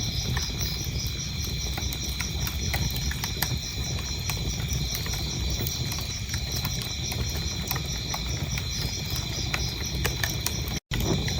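Wood fire crackling, with frequent sharp pops over a low rumble of flames, while crickets chirp steadily and rapidly in the background. The sound cuts out completely for a split second near the end.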